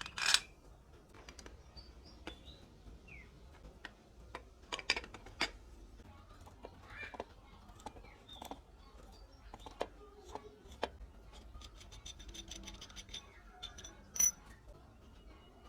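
Scattered light clicks and knocks of small hard objects being handled, with a quick run of ticks near the end.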